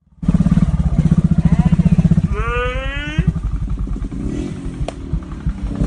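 Enduro dirt bike engine running with a fast, even throb, turning rougher after about two seconds. A brief high call, like a person's voice, sounds over it about two and a half seconds in.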